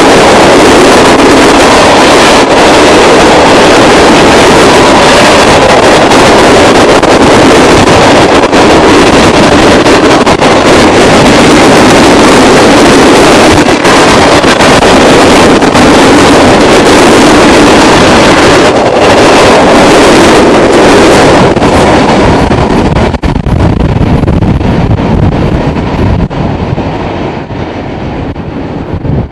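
Loaded ballast train rolling past, a loud steady rumble broken by frequent clicks and clanks from the wheels and cars. From about 22 seconds in it thins and grows quieter as the train moves away.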